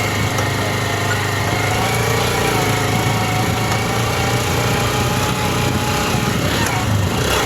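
Small motorcycle engine running at a steady speed while the bike is ridden, a continuous even drone.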